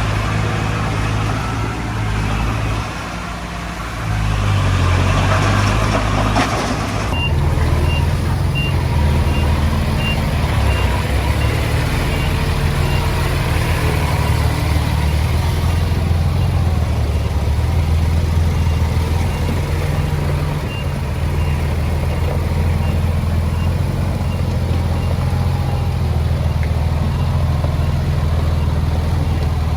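Heavy diesel earthmoving machinery, a small bulldozer and a dump truck, running steadily, with a reversing alarm beeping in a fast, even series from about seven seconds in and again near the end. A rushing noise over the first seven seconds cuts off abruptly.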